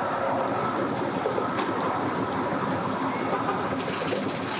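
Strong wind buffeting the microphone, a steady loud rushing noise, as the wind picks up ahead of a storm.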